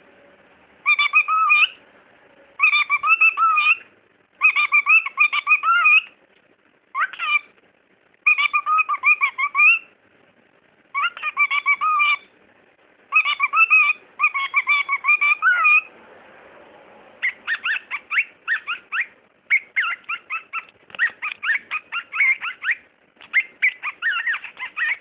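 Cockatiel chattering and warbling in short phrases of about a second each with brief pauses, then, about two-thirds of the way in, switching to a fast run of short repeated chirps.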